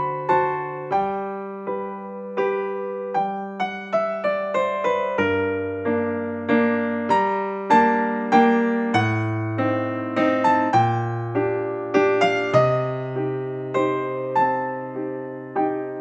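Background music: a slow, gentle piano piece, a melody over held bass notes, each note struck and fading away.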